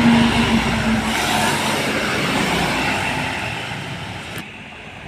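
A truck passing close by, loud with a steady low tone at first, then fading away; about four seconds in the sound drops suddenly to quieter road background.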